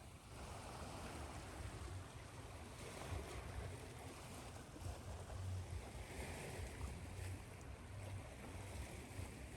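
Ocean surf mixed with white noise: a steady hiss over a low rumble that swells and ebbs.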